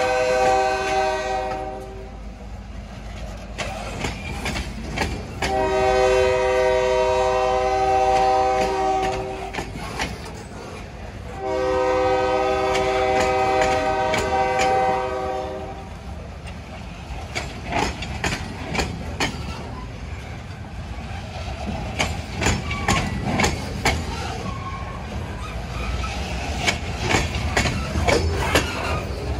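EMD GP40-2LW diesel locomotive blowing its horn for a grade crossing. One blast ends about two seconds in, then come two long blasts of about four seconds each. After that the horn stops, and the wheels clatter and click over the crossing and rail joints as the locomotive rolls by, over a low engine rumble.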